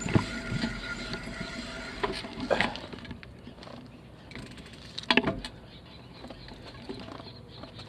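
Bicycle being ridden over a rough path: a low steady rolling noise with scattered knocks and rattles, strongest about five seconds in.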